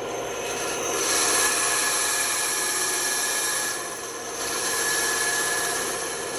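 Band saw running steadily, its blade cutting through wood in two passes with a short break about four seconds in.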